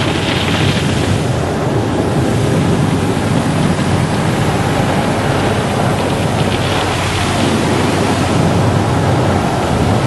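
Car wash running: a steady, loud rush of spraying water and machinery. A brighter hiss swells briefly near the start and again about seven seconds in.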